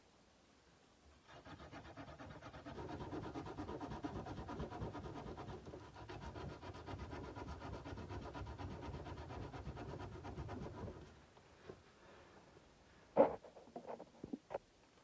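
Sandpaper rubbing back and forth along a steel kukri blade in quick, steady strokes, stopping about eleven seconds in. A sharp knock follows a couple of seconds later, then a few light clicks.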